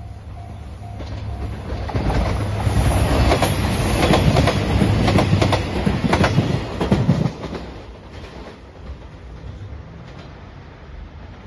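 JR Shikoku 2700 series diesel train passing close by, its wheels clattering rapidly over the rail joints. The pass is loud for about five seconds and then fades as the train moves away. A level-crossing bell is ringing at the start and stops about a second in.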